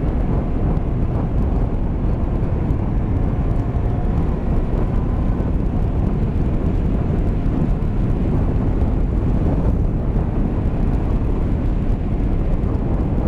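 Steady wind roar on the microphone of a moving motorcycle at road speed, with the Honda Varadero 125's V-twin engine running underneath.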